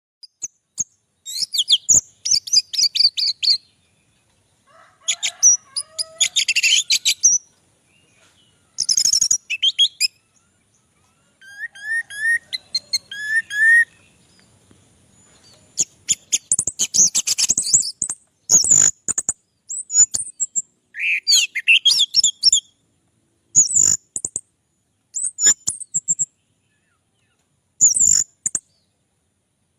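Orange-headed thrush (anis merah) singing: a run of short, fast, varied phrases of high chirps and whistles, broken by pauses of silence.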